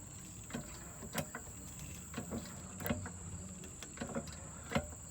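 Hydraulic floor jack being pumped to lift the minivan: a string of short clicks and knocks, roughly one or two a second, over a faint steady hum.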